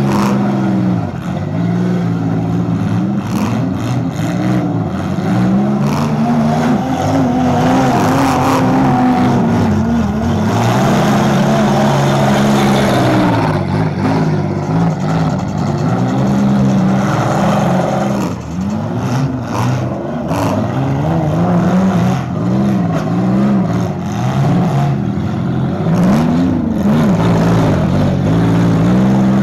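Demolition derby compact car engines revving hard, rising and falling again and again as the cars accelerate and ram, with occasional bangs from cars hitting each other.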